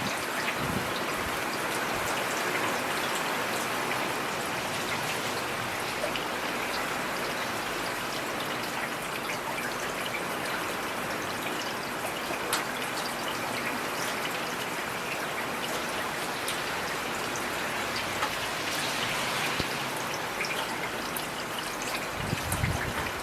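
Heavy rain falling steadily: a dense, even hiss with scattered sharper drop ticks. A brief low rumble comes in near the end.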